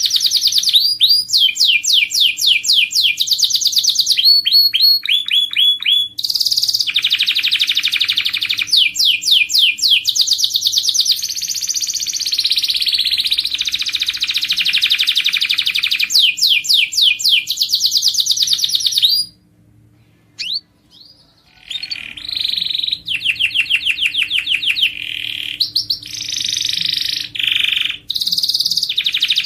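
Domestic canary singing: fast trills of rapidly repeated high notes, switching from one rolling phrase to the next. The song breaks off for about two seconds roughly two-thirds of the way through, and a faint steady hum runs underneath.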